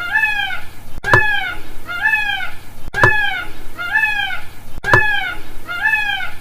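Indian peafowl calling over and over: short, arched, mewing calls, about two a second, with a brief click about every two seconds.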